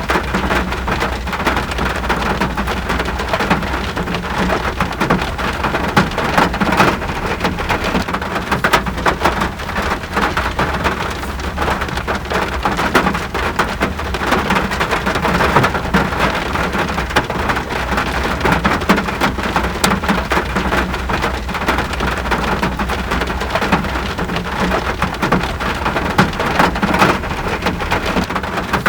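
Steady rain falling, many close drops striking a surface as a dense crackle of ticks over an even hiss, with a low steady rumble underneath.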